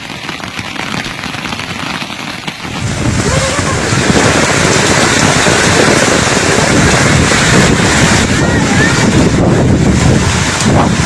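Wind blowing hard across the microphone: a loud, steady rushing with deep buffeting that grows stronger about three seconds in.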